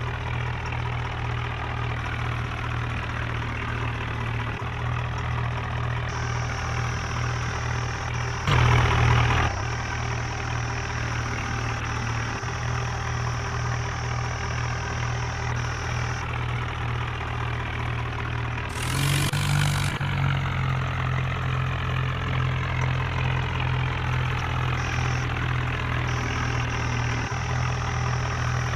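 Heavy machine's diesel engine running steadily, with a loud burst lasting about a second, about eight and a half seconds in, and the engine note rising a little about nineteen seconds in.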